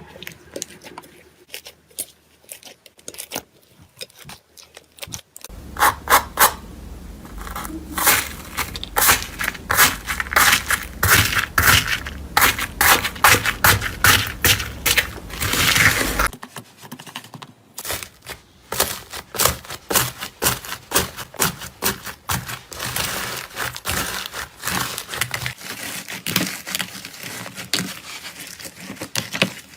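Crisp crackling and crunching from a crunchy material being pressed, cut and crushed by hand: a dense run of many small sharp clicks. It is fullest and loudest from about five seconds in to about sixteen seconds, then changes to a thinner crackle.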